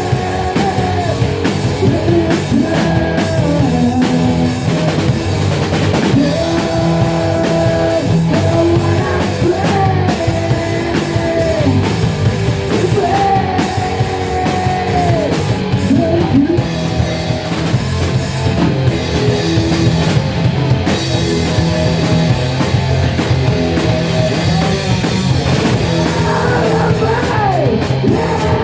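A rock band playing loud and steady, with drums, guitars and a sung melody line.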